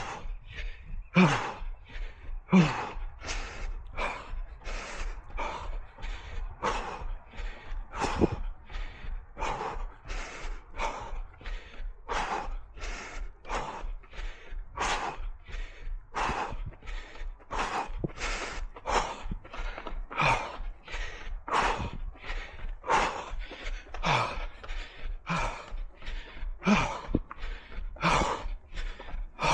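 A runner breathing hard in a steady rhythm, about one and a half breaths a second, some exhales briefly voiced, deep into a fast 5 km run.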